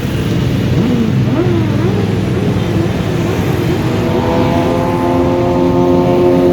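Motorcycle engines running in a convoy, with revs rising and falling over the first few seconds; about four seconds in, a steady higher-pitched note holds over the rumble.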